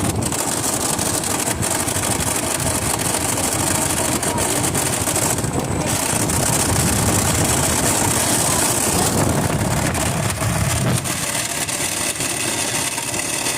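Honda Shine's 125 cc single-cylinder engine and gearbox running under way in the lower gears, with a rough grinding rattle ('gadgad') from the gearbox: the sign of broken gear wheels inside the transmission.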